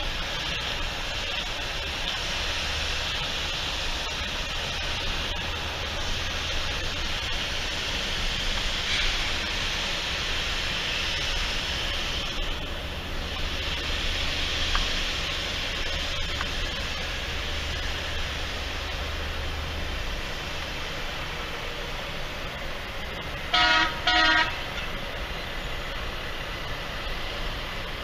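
Steady noise of an idling vehicle with a low engine rumble that fades about two-thirds of the way through. Near the end a horn sounds two short blasts.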